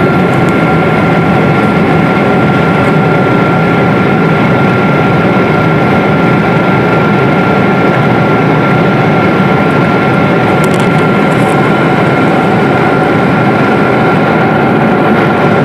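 Airliner jet engines running at high power, heard inside the cabin as a loud, steady rush with a constant high whine through it.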